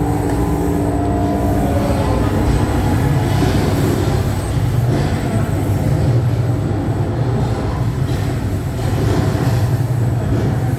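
Tornado 360 amusement ride running: a steady low mechanical hum over a rumbling noise that swells and eases a little.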